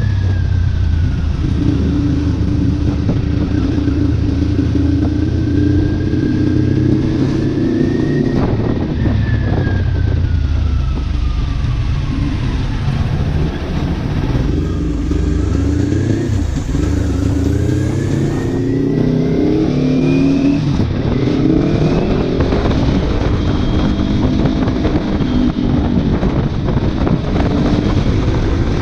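Kawasaki Ninja 400's parallel-twin engine through an aftermarket exhaust while riding, with wind noise over the microphone. The engine pitch climbs and drops with throttle and gear changes, falling away about halfway through and then rising again.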